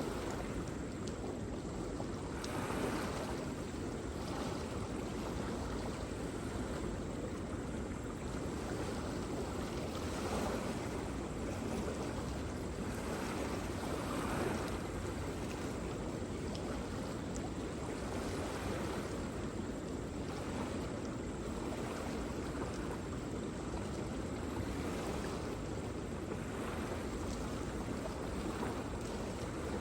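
Waterfall: a steady rush of falling, splashing water, with gentle swells in loudness every few seconds.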